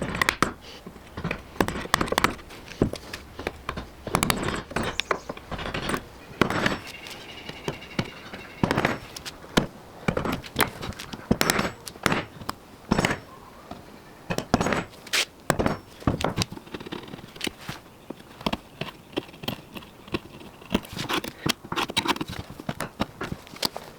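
Irregular knocks, thunks and scrapes of hand work with wood and tools, echoing slightly in a small room.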